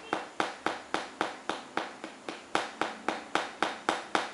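A small hammer tapping a Tong Ren healing doll in a steady rhythm, sharp light taps about three to four a second.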